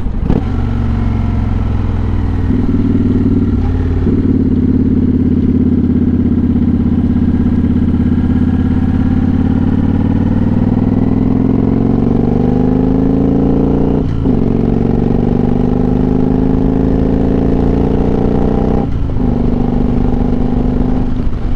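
Motorcycle engine running on the move, steady at first, then accelerating with its pitch rising from about halfway through. Two brief dips in the last third, as it changes up a gear, each followed by the pitch climbing again.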